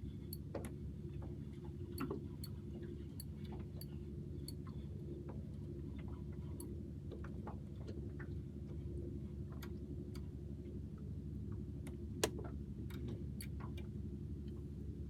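Light, irregular clicks and taps from fishing tackle and a small fish being handled on a small boat, over a steady low hum. One sharper click stands out about twelve seconds in.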